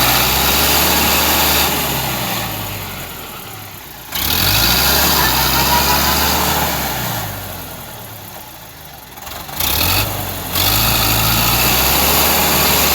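Tractor engine running hard, loud for a couple of seconds and then dying away, cutting back in abruptly about four seconds in and again near ten seconds in.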